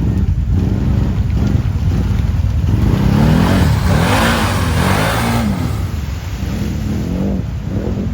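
Quad bike engine running and revving, its pitch rising and falling repeatedly. A rushing noise swells and fades about three to six seconds in.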